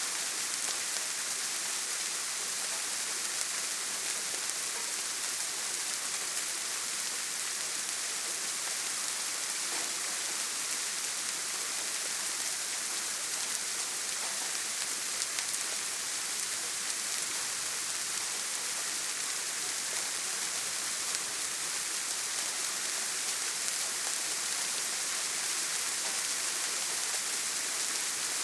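Heavy rain falling steadily, an even high hiss with no thunder.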